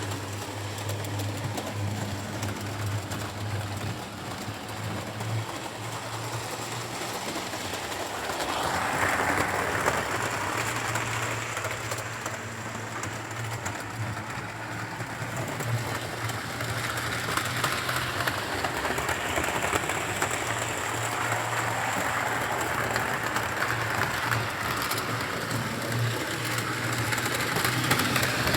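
Model train of Class 67 diesel locomotives running along a layout: steady electric motor hum with wheels clicking over the rail joints. It gets louder about a third of the way in, and again past the middle, as the train comes nearer.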